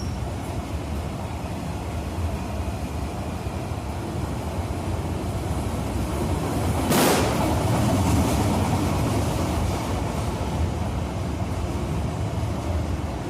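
Freight train of goods wagons rolling past with a steady low rumble. A short loud rush of noise comes about halfway through, and the rumble swells around it before easing off.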